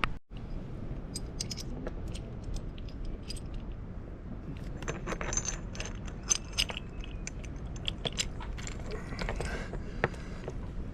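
Small metal hardware clinking and clicking in scattered bursts as an anchor swivel and its shackle are handled and fitted to the anchor chain, the clinks thickest around the middle.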